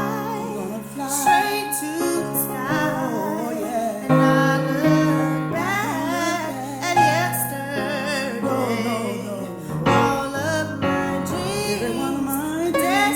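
Two women singing a song chorus together with vibrato, over sustained piano chords.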